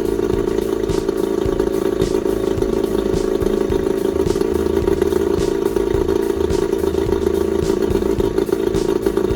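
Johnson 9.9 hp two-stroke kicker outboard running steadily at a fast idle on flush muffs, on its first run after winter storage. It runs strongly.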